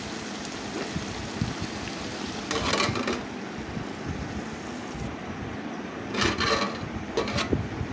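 Eggplant pieces frying in oil under a lid in a kadai, a steady sizzle. Short clinks of the metal lid being handled come about two and a half seconds in and again between six and seven and a half seconds.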